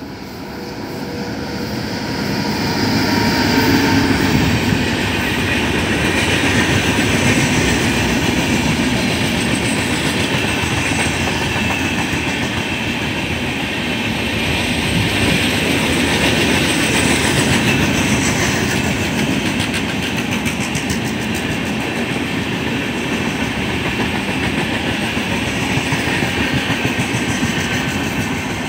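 An electric locomotive and a long rake of LHB passenger coaches pass at speed. The sound grows louder over the first few seconds as the locomotive comes by, then the coaches' wheels run on in a steady rumble and clatter over the track.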